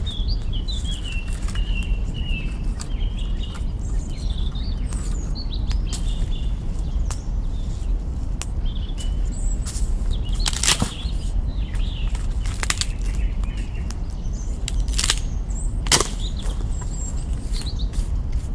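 Campfire crackling, with a few sharp wood pops in the second half, the loudest near the end, over a steady low rumble. Small birds chirp and twitter through the first third and again later.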